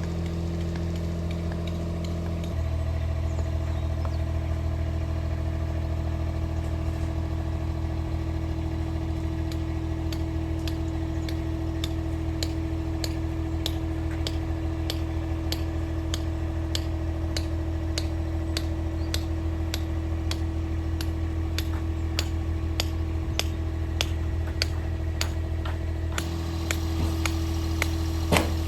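An engine running steadily, its pitch stepping to a new speed twice, about two and a half seconds in and again near the end. From about a third of the way in, regular sharp ticks, roughly one and a half to two a second, sound over it.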